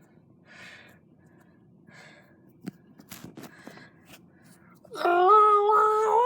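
Soft breathy sounds and a few small clicks, then about five seconds in a loud, steady wailing voice held for over a second, rising a little at the end.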